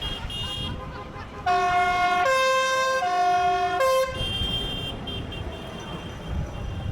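A vehicle's two-tone horn or siren sounds four alternating notes, low-high-low-high, for about two and a half seconds, over the steady rumble of passing engines.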